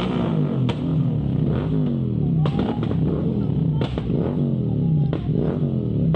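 Motorcycle engine running with the throttle rising and easing off again and again, its pitch climbing and falling back about once a second, with a few sharp clicks.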